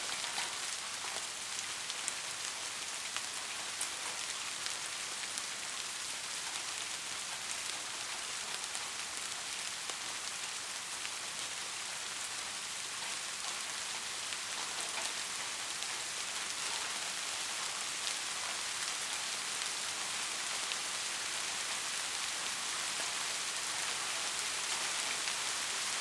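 Steady rain falling: an even, dense hiss with scattered individual drop ticks, growing slightly louder near the end.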